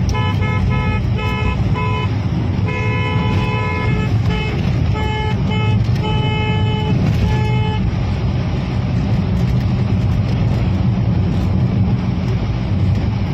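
Car horn honked over and over in a quick series of short blasts with a few longer ones, stopping about eight seconds in, over steady vehicle engine and road rumble.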